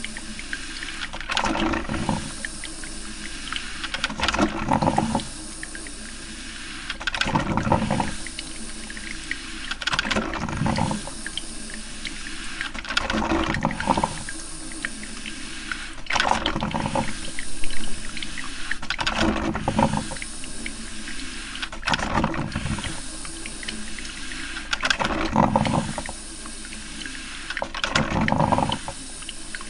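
Coffee maker brewing: gurgling, spluttering bursts of water and steam about every three seconds over a steady hiss.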